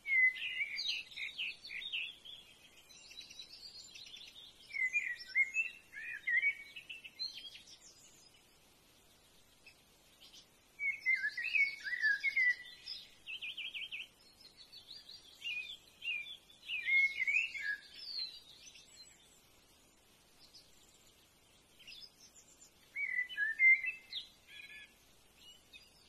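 Bird song: bursts of rapid, jumbled chirps and short trills, each lasting a second or a few seconds, coming about five times with pauses between.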